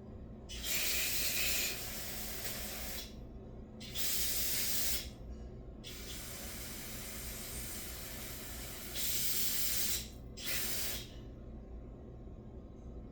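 Aerosol carburetor cleaner sprayed in four hissing bursts onto a lawnmower carburetor. The third burst is the longest, about four seconds, and the last is short.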